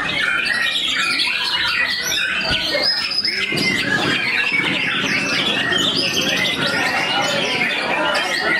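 White-rumped shamas (murai batu) singing together, a dense, continuous stream of rapid overlapping whistles, chatters and squawks.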